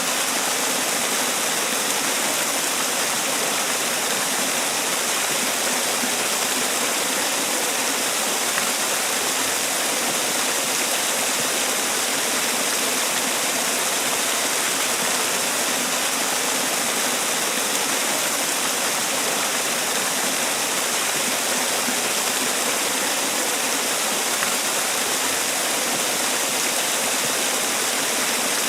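Man-made waterfall: water falling and splashing in a steady, unbroken rush, mostly hiss-like in tone with little low rumble.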